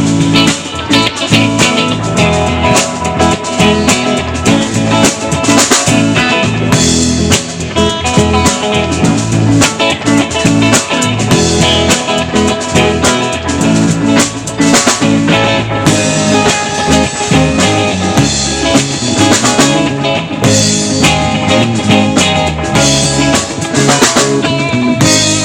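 Live rock band playing an instrumental passage, with guitar over a drum kit keeping a steady beat.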